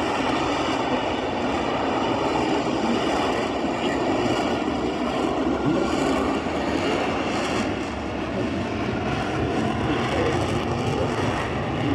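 Aircraft engine noise: a loud, steady roar of a plane flying at an airshow, holding level throughout.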